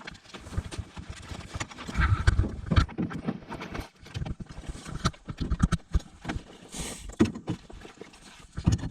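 Irregular knocks and hollow clunks of gear being handled and bumped against a canoe's hull, with a short rustling hiss near the end.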